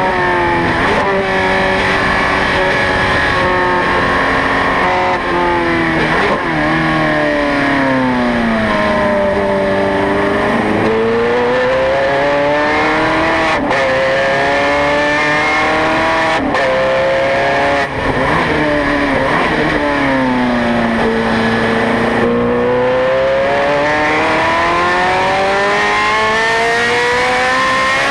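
Ferrari 430 Scuderia's flat-plane V8 run hard on a race track, rising in pitch under acceleration with quick breaks at the gear changes. Twice it falls slowly in pitch as the car slows, then climbs again for a long stretch.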